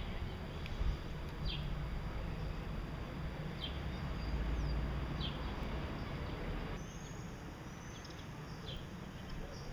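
Small cage birds giving short, high, falling chirps every second or two over a steady low rumbling background.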